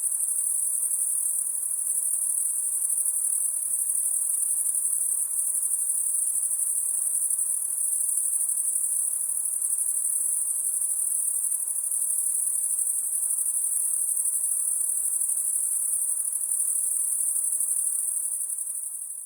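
Night insects, likely crickets, making a continuous very high-pitched trill that holds steady, then fades out near the end.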